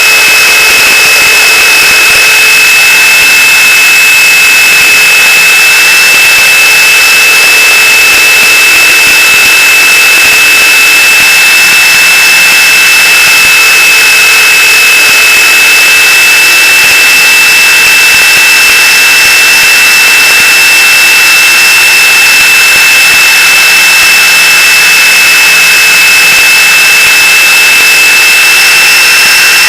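Electric RC helicopter (Gaui Hurricane 425) running at a steady head speed: a constant high whine from the motor and gears over rotor noise. The pitch edges slightly higher near the end.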